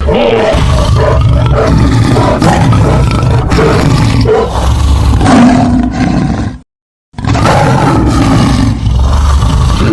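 Edited T. rex roar built from a hippopotamus roar layered with bear and crocodile growls, roaring loudly. It cuts to silence for about half a second around seven seconds in, then the roaring resumes.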